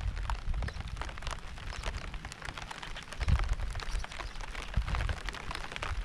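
Steady rain, a dense run of individual drop hits, with low rumbles swelling up twice, about three and about five seconds in.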